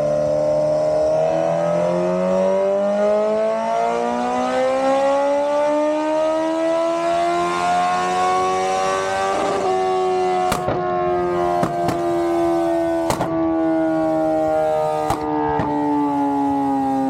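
Superbike engine on a chassis dyno in a full-throttle pull, its note climbing steadily for about nine seconds. The throttle then shuts and the pitch falls slowly as the rollers coast down, with a few sharp pops.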